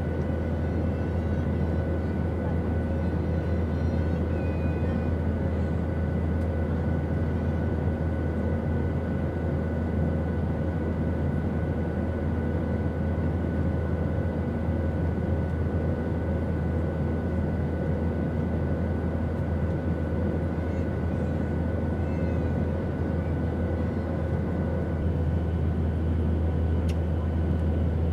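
Steady airliner cabin noise in flight: a constant low rumble from the engines and airflow, with a few faint, steady whining tones above it. A faint click comes near the end.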